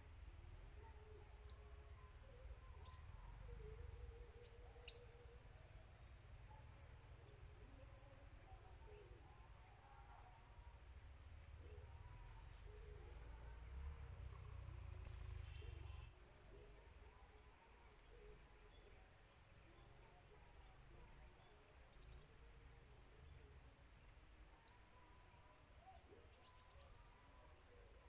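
Steady high-pitched insect trilling that runs unbroken, with faint, low bird calls now and then underneath. About halfway through come two sharp clicks in quick succession, louder than anything else.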